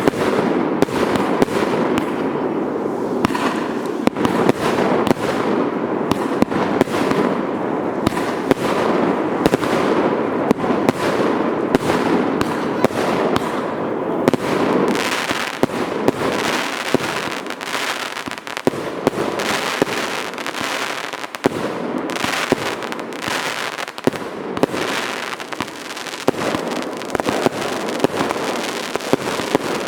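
Fireworks going off in a dense barrage: many sharp bangs over continuous crackling, the crackle thinning after about halfway into more separate bangs.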